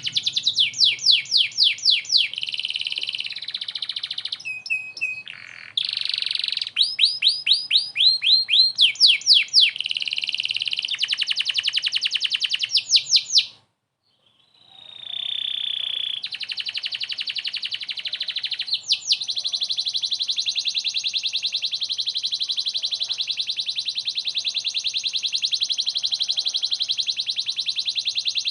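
Domestic canary singing loudly: rapid trills and quick sweeping whistled notes, broken by about a second of silence halfway through, then a long, fast, even trill.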